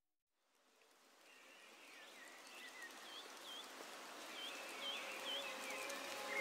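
Ambience fading in from silence and growing steadily louder, with a bird chirping repeatedly over a steady hiss.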